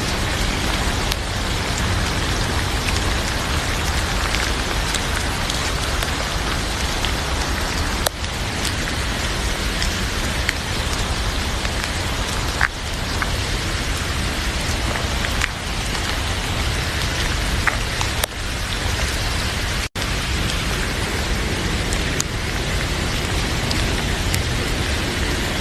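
Heavy, steady rain, with scattered sharp pops of a crackling wood fire. The sound drops out for an instant about twenty seconds in.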